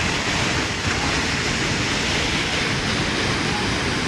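Rushing floodwater of an overflowing river: a steady, even rushing noise.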